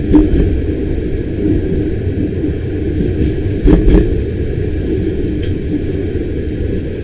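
Bernina Express passenger coach running, heard from inside: a steady low rumble of wheels on track. There is a sharp knock just after the start and a pair of knocks about halfway through.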